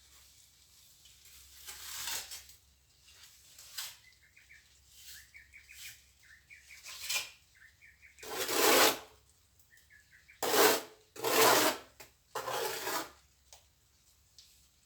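A plastering trowel scraping and spreading mortar in a series of rough strokes, the loudest three close together near the end. Faint high chirps come in between the strokes.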